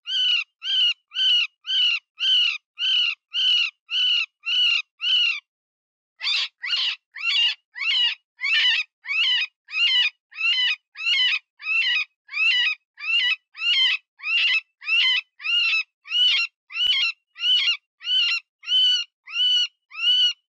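Cottontail rabbit distress call: a steady run of short, high-pitched squeals, about two a second, with one brief pause about five seconds in. It is the cry of a wounded rabbit, used to lure predators such as coyotes and foxes.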